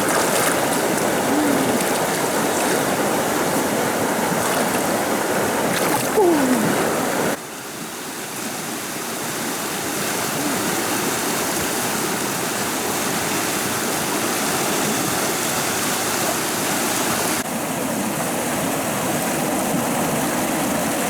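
Stream water rushing steadily, with a short louder burst about six seconds in. The rush drops suddenly in level about seven seconds in and shifts again near the end.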